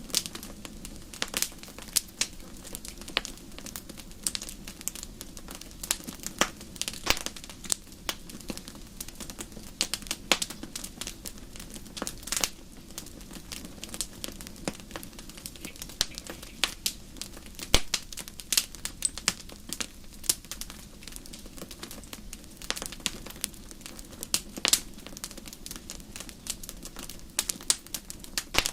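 Bonfire crackling, with irregular sharp pops and snaps over a steady low hiss of burning.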